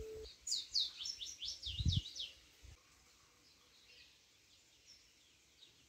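A bird singing: a quick run of high, falling chirps over the first two seconds or so, with a soft low thump near the end of the run, then it goes almost quiet.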